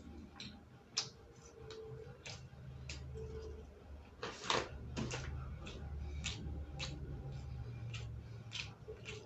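A person eating close to the microphone: irregular crunches and wet mouth clicks from chewing, with one longer, louder crunch about halfway through, over a steady low hum.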